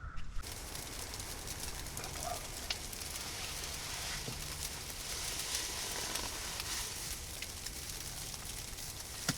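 Steady hiss of light rain pattering outdoors, with many faint scattered ticks of drops.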